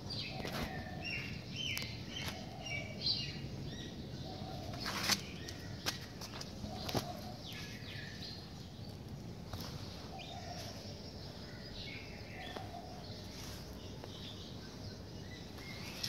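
Small birds chirping on and off in short calls, over a steady outdoor background. A few sharp clicks stand out about five and seven seconds in.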